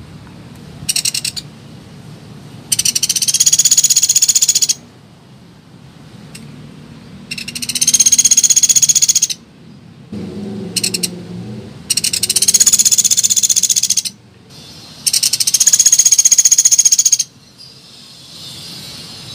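A woodpecker (pelatuk beras) giving loud, very fast rattling calls. Four calls of about two seconds each come every two to three seconds, with a couple of short rattles between them, as played on a bird-trapping lure recording.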